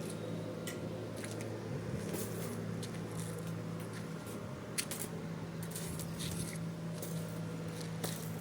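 Pet cremation furnace running with a steady low hum, with scattered light clicks and brief rustles over it.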